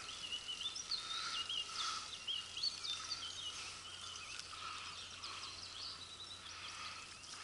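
Small birds singing: a steady run of short, high chirps and warbles that rise and fall, over faint background noise.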